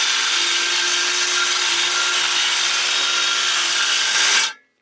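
Circular saw ripping a board lengthwise, running steadily under load, then cutting off suddenly near the end as the cut finishes.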